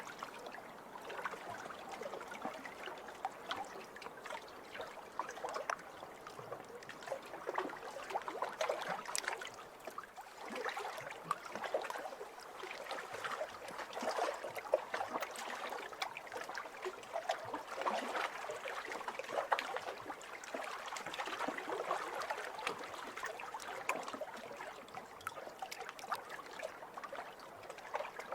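Small waves lapping over a pebble shore: water washing in and draining back through the stones with a fine trickling rattle, swelling and easing every few seconds.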